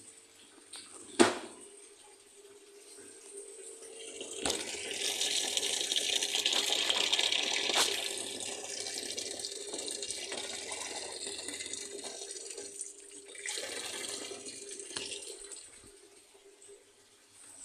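Water running from a tap in a steady gush that starts about four and a half seconds in and eases off near the end. A sharp knock comes about a second in.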